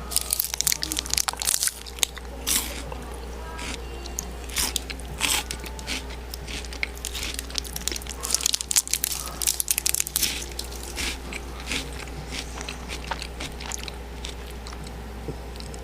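A person biting and chewing crunchy food close to the microphone: repeated crisp crunches and mouth clicks, busiest near the start and in the middle. A steady low hum runs underneath.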